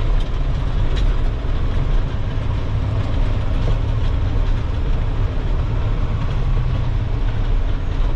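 Dump truck's diesel engine running with a steady low drone as the truck is driven slowly into position.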